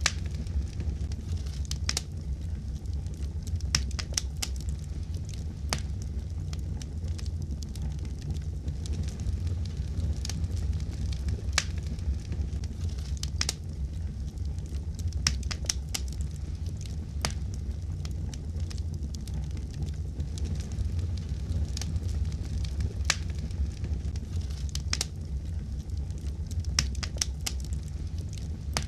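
Fireplace fire crackling: irregular sharp pops and snaps over a steady low rumble of flames.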